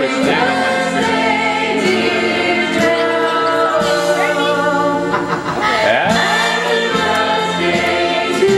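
Music with several voices singing together over sustained low notes, the voices sliding in pitch now and then.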